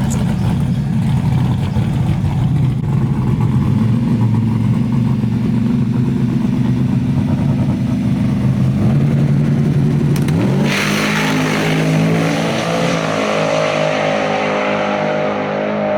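Drag-racing pickup trucks' engines running steadily and loudly on the start line. About ten and a half seconds in they launch: a sudden rush of noise as the engine note climbs, rising again and again as the trucks accelerate down the strip.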